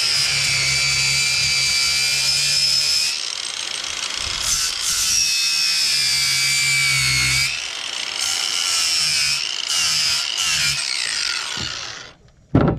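Angle grinder with a flap disc grinding metal brackets clean. Its high whine sags in pitch as it is pressed into the work and eases briefly about three and seven and a half seconds in. It stops near the end, followed by a sharp clunk.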